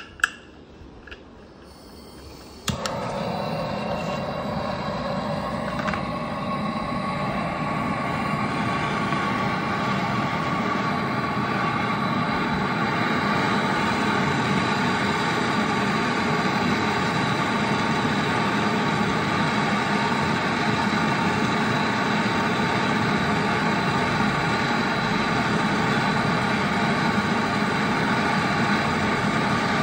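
Brazing torch lit about three seconds in, then burning with a steady loud roar while the refrigeration pipe joints on a replacement fridge compressor are brazed; a few light clicks of handling tools before it.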